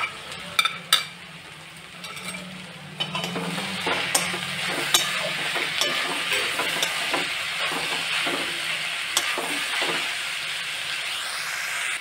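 Sliced onions and tomatoes frying in oil in a kadhai. The pan sizzles, and a wooden spatula stirs and scrapes through the mix, louder from about three seconds in. There are a few light clicks near the start.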